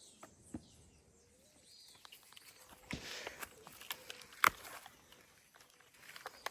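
Scattered footsteps and rustling, with light knocks and one sharp knock about four and a half seconds in.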